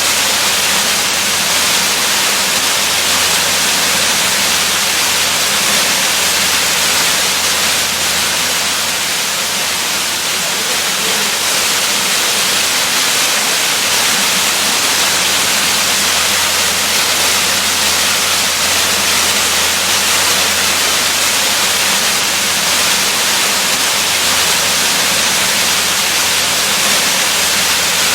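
Waterfall rushing: a steady, dense roar of falling water without change.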